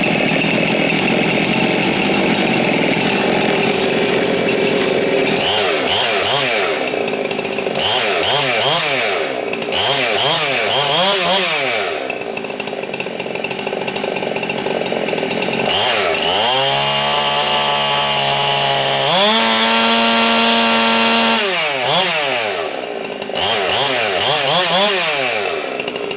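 Ported Husqvarna 390 XP two-stroke chainsaw, fitted with a dual-port muffler, running loud. It is revved up and down repeatedly, then held at high revs for a few seconds and pushed higher still at its loudest, before a few more blips of the throttle.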